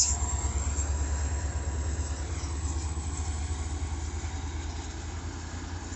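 Low diesel rumble of a FrontRunner commuter train's MP36PH locomotive, fading steadily as the train pulls away from the station.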